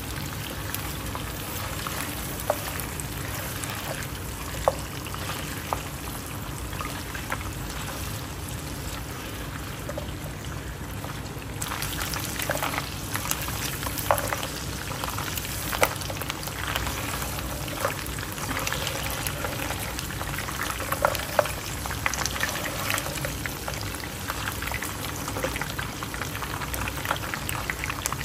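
Mutton trotters sizzling in hot oil in a nonstick pan, with clicks and scrapes from a spatula turning them. The sizzling grows louder a little before halfway through.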